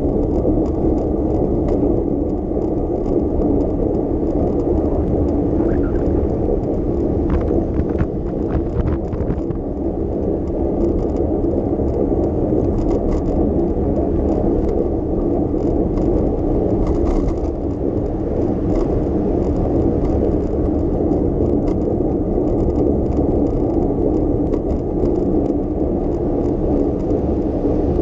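Bicycle riding along city streets: a steady rumble of tyre and road noise with light rattles and clicks from the bike, a few of them clustered about a third of the way in.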